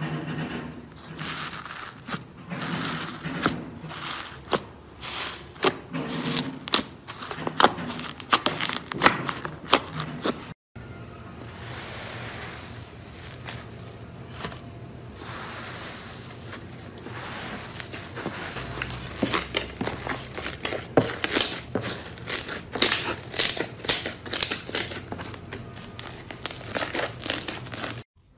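Slime being squeezed and poked by hand, giving dense, quick clicky pops and crackles. The sound stops for an instant about ten seconds in, then the crackling picks up again.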